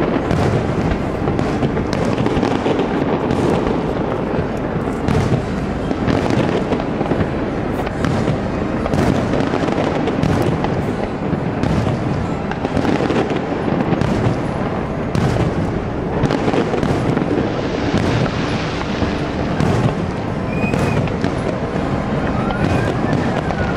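Aerial firework shells bursting one after another in a continuous barrage of booms and crackling.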